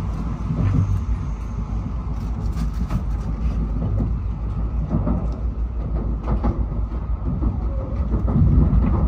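Cabin noise of a Tokaido Shinkansen N700S train running on the approach to its terminus: a steady low rumble with scattered clicks, growing somewhat louder near the end.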